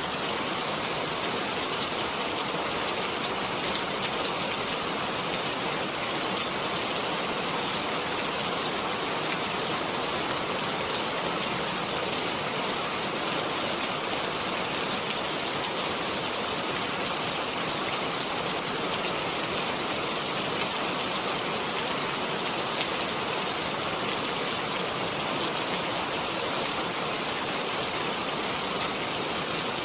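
Steady rain falling, an even hiss of many drops with a few individual drop ticks, unchanging in strength.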